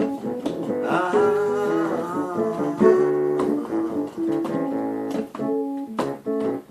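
Acoustic guitar playing an instrumental blues break: a run of picked notes, some of them bending in pitch.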